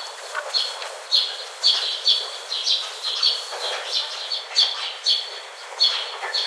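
Parrot giving short, repeated chirping calls, about two a second, over a faint background hiss.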